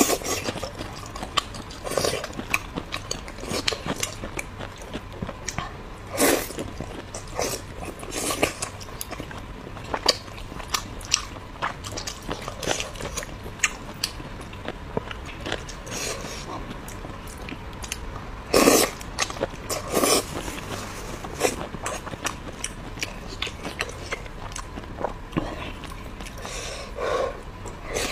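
Close-miked eating: a person biting and chewing braised pork, chilli peppers and rice, with irregular wet mouth clicks throughout and two louder bites about two-thirds of the way through.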